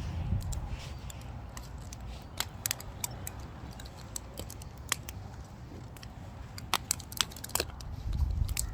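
Firewood burning, crackling with irregular sharp pops and snaps.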